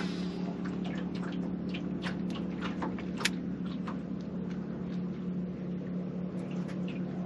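Boat motor humming steadily at one even pitch, with scattered light clicks and ticks over it.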